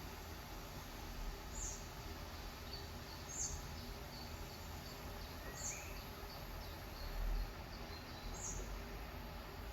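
Birds chirping over a steady background hiss: a short high chirp repeats about every two seconds, with softer, lower twitters between. A low thump comes about seven seconds in.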